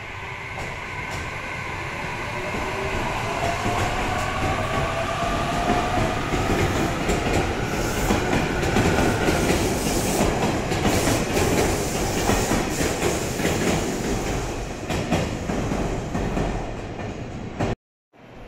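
JR Kyushu electric multiple-unit train pulling out of the station: a motor whine rises in pitch as it accelerates, and the wheels click over the rail joints as the cars pass. The sound then fades and cuts off suddenly near the end.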